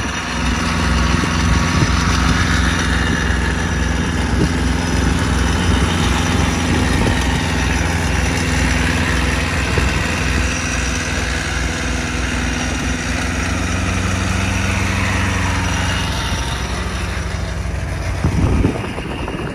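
Small car engine running at a steady speed while driving, under a haze of tyre and wind noise, with a brief louder surge near the end.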